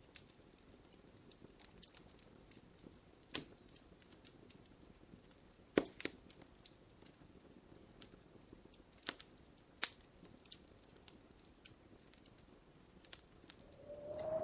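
Wood fire crackling in a fireplace: irregular sharp pops and snaps over a faint hiss, the loudest snaps about 6 and 10 seconds in.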